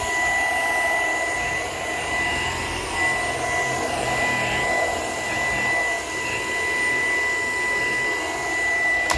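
Shark PowerDetect vacuum running in handheld mode on stairs: a steady suction rush with a constant high motor whine.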